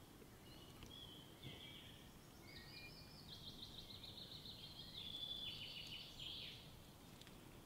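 Faint birdsong: scattered high chirps, then a rapid high trill from about three seconds in, loudest a little past the middle and fading about six and a half seconds in, over a low steady background noise.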